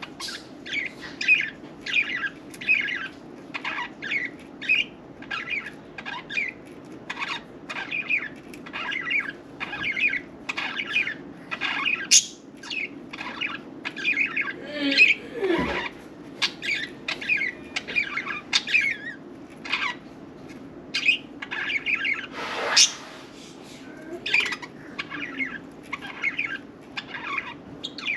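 Budgerigars chattering, a continuous run of short, quick chirps and warbles, with one louder rustle of movement about two thirds of the way in.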